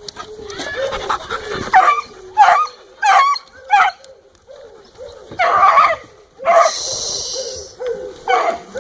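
Small dogs barking and yipping in short, sharp calls during rough group play, with a brief rasping hiss a little past the middle.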